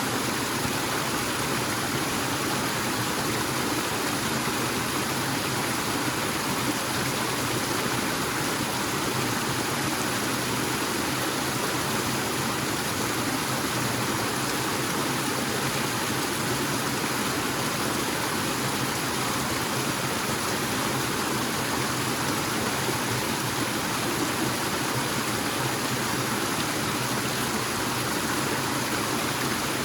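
A forest waterfall splashing and rushing in a steady, unbroken wash of water noise.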